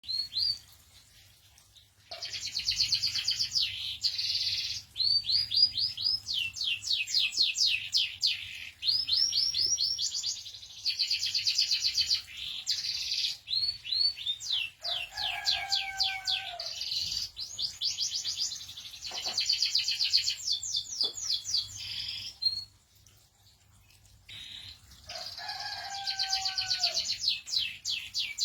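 Domestic canary singing long, fast-trilled song phrases: rapid rolls and chirps that break off briefly about two seconds in and again a few seconds before the end.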